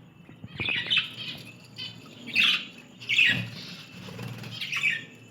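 Budgerigars squawking in about four loud, harsh bursts, with wing flapping.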